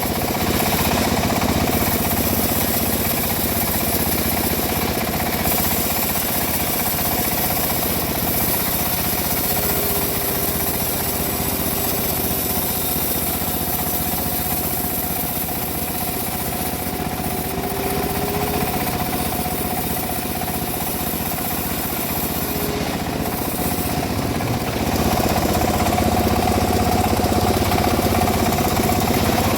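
Homemade engine-driven bandsaw mill running steadily while sawing teak, a continuous machine noise that grows louder near the end.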